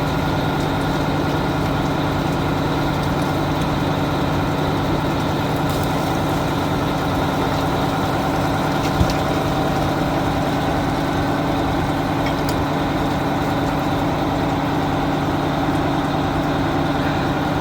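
1988 Amertek 4x4 fire truck's engine idling steadily, with a single short click about nine seconds in.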